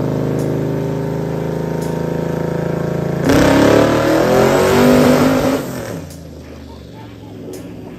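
Twin-turbocharged V8 of a 1941 Chevrolet pickup running at a steady speed, then opened up hard about three seconds in: much louder, with a rough, shifting pitch. It eases off about two and a half seconds later.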